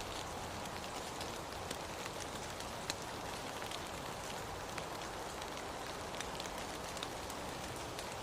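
Steady rain falling, an even hiss with scattered sharp drop ticks standing out now and then.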